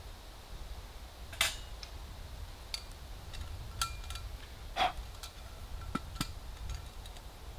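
Small camp items handled by hand: scattered light clicks and taps, a few with a short ring, and a brief rustle about five seconds in, over a low steady rumble.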